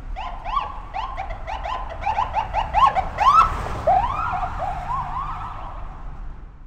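Electronic alarm sound effect: a quick run of rising-then-falling chirps over a low rumble, about three or four a second. The chirps quicken briefly, then slow and fade away near the end.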